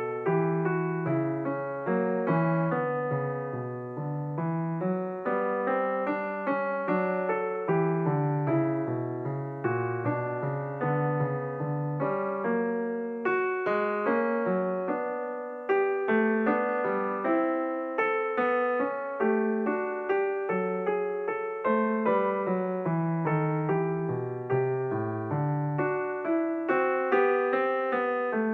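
Background piano music: a slow melody of single struck notes over a lower accompaniment, each note fading after it is struck.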